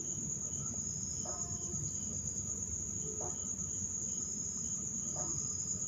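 Crickets chirring steadily in the background, a constant high-pitched drone, with a few faint brief sounds about two seconds apart.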